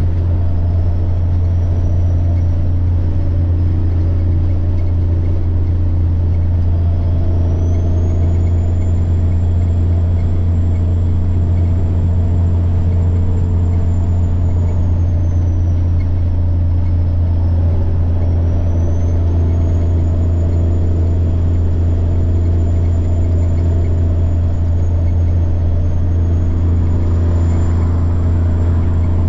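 Semi truck's diesel engine droning steadily under way, with a high turbocharger whine over it that climbs, holds, dips and climbs again over several seconds at a time.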